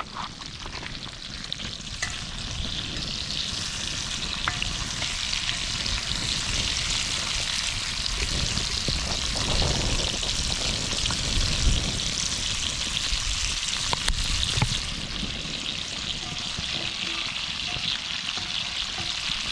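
Food sizzling in hot butter and olive oil in a cast iron skillet: a steady frying hiss that builds up in the first couple of seconds, with a few light ticks from stirring.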